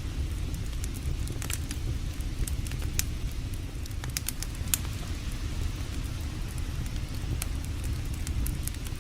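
Wood campfire crackling, with irregular sharp pops and snaps, over a steady low rush of creek water.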